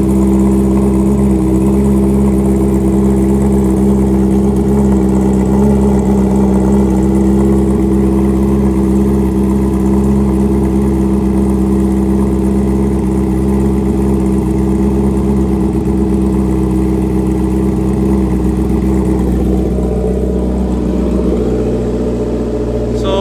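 2021 Honda CB650R's inline-four engine idling loud and steady on a cold start through a full aftermarket exhaust with a bomb-style muffler, its note settling slightly lower near the end.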